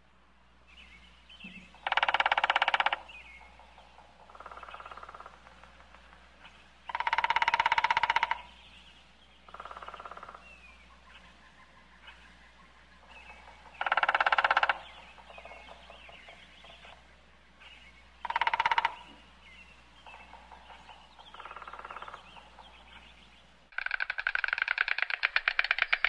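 Bird calls in four loud bursts of about a second each, with quieter calls between them. Near the end a loud, fast, even rattle starts.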